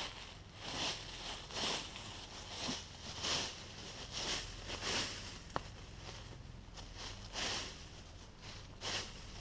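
Rustling of tent and camping gear being handled: irregular swishes about once a second, with one sharp click about five and a half seconds in.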